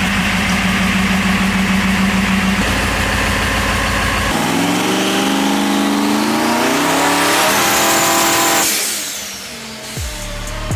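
Diesel engine running hard with a steady drone. From about four seconds in its pitch climbs steadily while a high whistle rises over it, then the sound fades away near the end.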